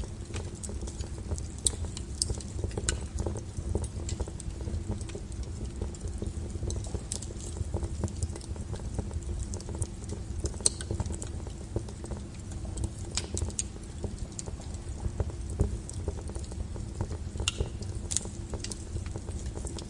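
Wood fire crackling, with irregular sharp pops and snaps over a steady low rumble of the burning flames.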